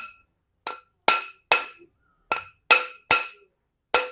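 A hammer tapping the edge of the bush inside a motorcycle's steel front fork tube, about seven sharp metallic strikes at uneven spacing, each ringing briefly. The hammering peens the loose fork bush so that it no longer moves in the tube.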